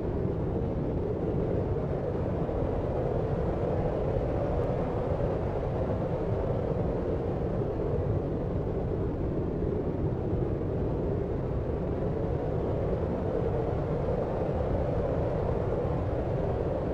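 Steady deep noise of the brown-noise kind for sleep: an unbroken low rumbling hiss with its weight in the low end, unchanging throughout.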